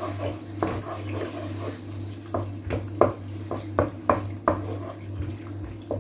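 Onions and tomato paste frying in hot vegetable oil in a pot, with a steady low hum underneath. Around the middle, a spoon knocks against the pot about ten times in quick succession while stirring.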